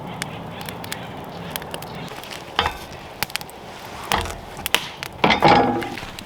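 Scattered small clicks and several louder knocks and clatters, some of them ringing briefly. The loudest cluster comes a little after five seconds in.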